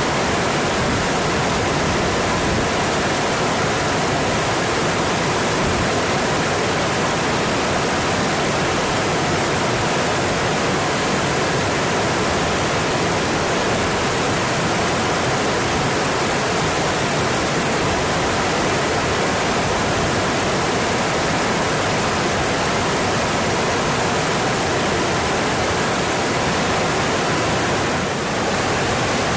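Mountain stream rushing steadily, an even wash of flowing water that dips slightly for a moment near the end.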